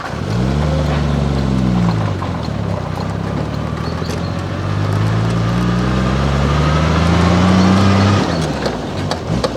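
Triumph car's six-cylinder engine pulling under acceleration, its pitch climbing in two long runs with a sudden drop between them at a gear change, then climbing again near the end.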